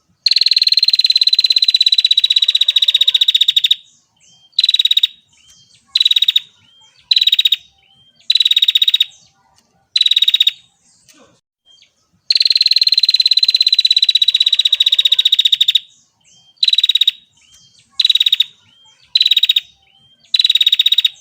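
Female prinia (prenjak) calling: a long, fast, buzzy trill of about three and a half seconds that falls slightly in pitch, followed by four or five short trill bursts, and then the same sequence again.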